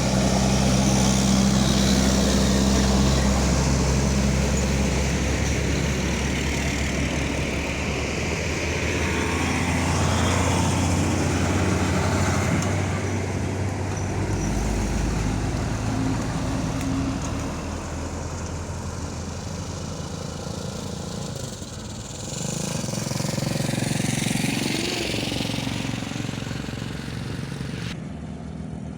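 Truck engines running on the road: a steady low engine hum at first, then passing vehicle noise that swells and fades, rising again near the end.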